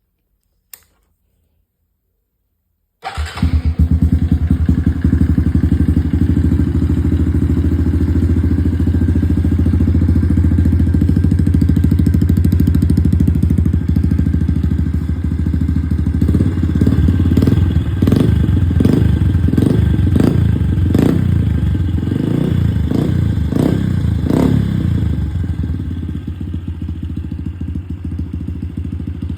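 Honda CRF110 dirt bike's single-cylinder four-stroke engine, breathing through a BBR full exhaust, started from cold. A single click comes before the engine fires about three seconds in and runs steadily. From about halfway it is blipped in a string of short revs, then drops back to a steady, slightly quieter idle near the end.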